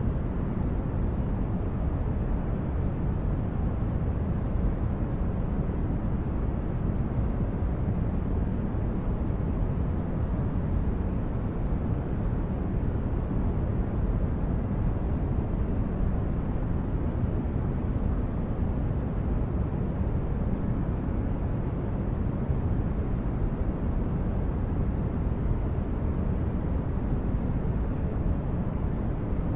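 Sci-fi spaceship ambience: a steady, deep, brown-noise-like hum, heaviest in the bass, that does not change.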